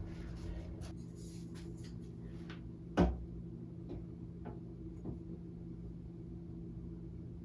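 Handling noises from unpacking a plastic utility sink's parts: scattered light clicks and one sharp knock about three seconds in, over a steady low hum.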